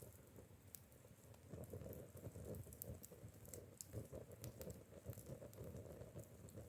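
Faint running water of a stream, an uneven gurgling patter with scattered small ticks.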